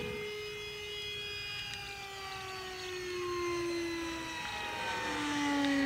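Electric ducted fan of a 70mm EDF Dolphin RC jet whining, its pitch falling slowly.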